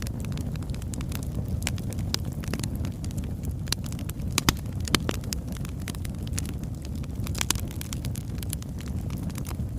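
Oak logs burning in a fireplace: a steady low rumble of flame with frequent sharp crackles and pops, two louder pops about halfway through.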